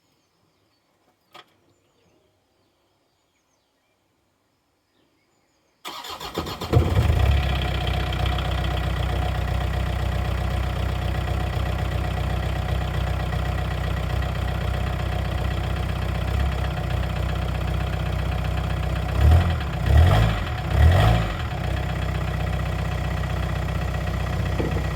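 Rover 25's four-cylinder turbodiesel starting from cold: after a quiet spell and a single click, it fires abruptly about six seconds in and settles into a steady diesel idle. Near the end, three short blips of the throttle raise the revs briefly.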